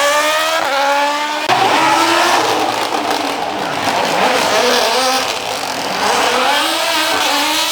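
Rally car engine revving hard, its pitch climbing steeply through the gears with a break about a second and a half in, then a stretch of rushing noise before the engine climbs again near the end.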